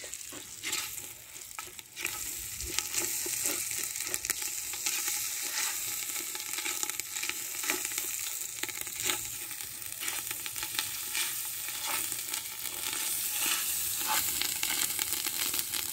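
Onions, ginger-garlic and fatty mutton sizzling in hot oil in a cast-iron pot, with a metal spoon scraping and clicking against the pot as the food is stirred. The sizzle gets louder about two seconds in.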